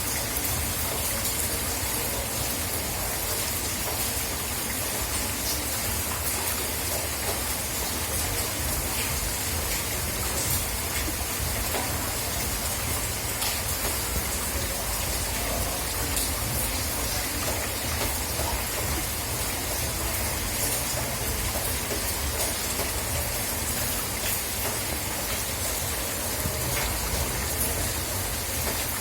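Steady heavy rain falling on surfaces, a dense even hiss with many small drop ticks.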